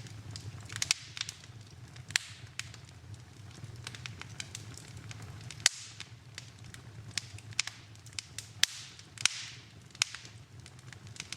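Wood fire in a fireplace crackling, with irregular sharp pops throughout. The loudest pops come about two, six and nine seconds in, over a steady low rumble and a few brief hisses.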